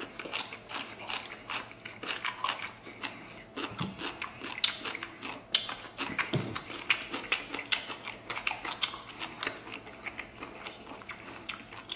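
A person chewing braised pork intestines with the mouth close to the microphone: a steady run of short clicks and smacks, several a second.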